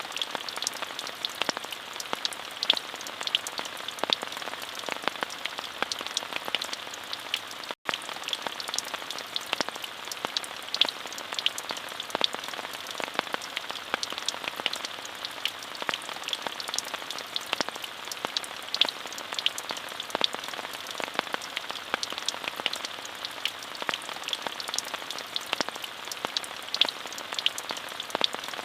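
Steady rain falling, a dense even hiss with many individual drops ticking sharply on a surface. The sound cuts out for an instant about eight seconds in.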